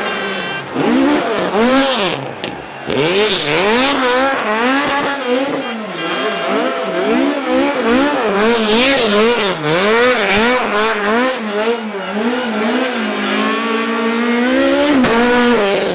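Rally car engine revving hard and dropping again over and over, its pitch swinging up and down roughly once or twice a second, with tyre squeal, as the car spins donuts.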